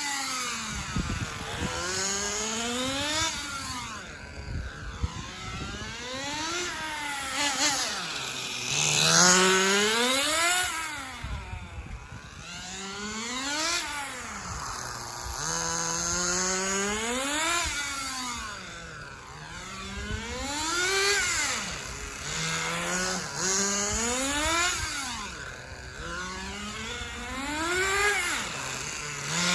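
Kyosho Super Ten RC car's small nitro engine being driven hard, its high-pitched whine climbing and dropping again and again every few seconds as it accelerates, lifts off and passes by.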